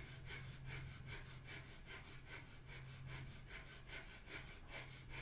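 Breath of fire: rapid, rhythmic, forceful exhalations through the nose, pumped from the navel, about two and a half breaths a second, with a low steady hum underneath.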